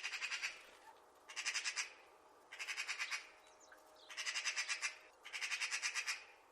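Magpie chattering: repeated bursts of rapid, harsh rattling notes, about five bursts each lasting up to a second.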